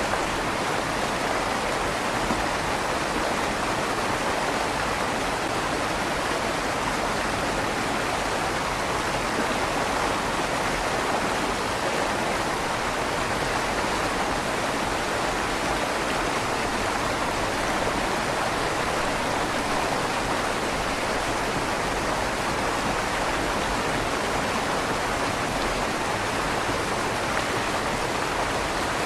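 River water flowing steadily through the tunnel under a stone bridge, an even rushing with a slight echo off the tunnel walls.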